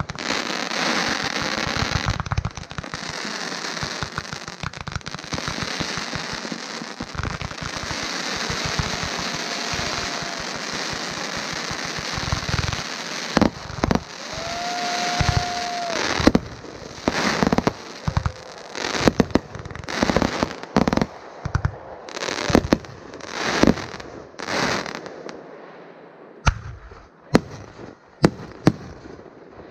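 Aerial fireworks display: a long stretch of dense, continuous crackling, then a run of separate bursts and sharp bangs through the second half. Twice a steady whistle sounds, the longer one for about two seconds in the middle.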